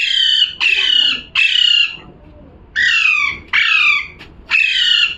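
Pet parrot squawking: six loud calls of about half a second each, every one falling in pitch, three in quick succession, a short pause, then three more.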